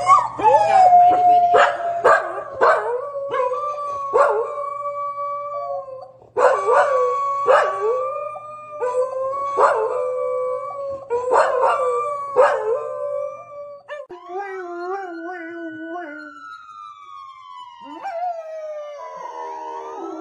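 A dog howling in long held notes, broken by short sharp yelps about once a second. A little past halfway it changes to long gliding howls, with one slow falling howl near the end.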